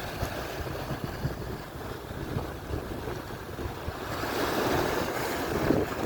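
Atlantic surf on the shore, a wave washing in and swelling into a louder hiss about four seconds in. Wind rumbles on the microphone underneath.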